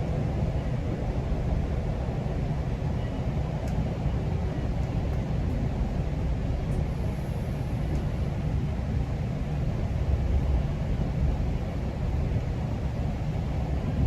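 GO Transit commuter train under way, heard from on board: a steady low rumble of the train running on the track, with a few faint clicks.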